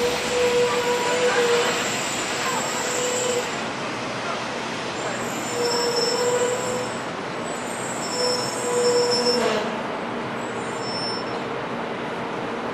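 700 series Shinkansen train braking to a stop beside the platform. Its wheels and brakes give high squeals that come and go, ending in a short falling squeal about nine and a half seconds in as it halts.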